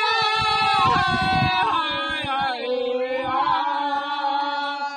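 Powwow singers' voices chanting together in long held notes that step and slide down in pitch, breaking off at the end of the phrase.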